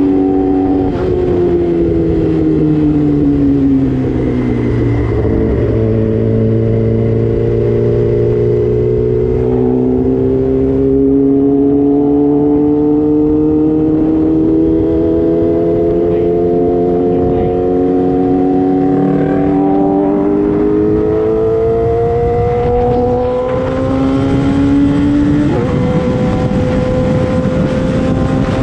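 Sportbike engine running under way, its note dropping over the first few seconds and then climbing slowly and steadily for a long stretch. It falls again around twenty seconds, rises once more, and jumps suddenly about 25 seconds in, like a gear change.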